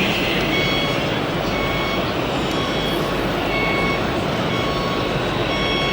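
Reversing alarm on a radio-controlled model truck or construction machine beeping in short even tones about once a second, over a steady noisy background.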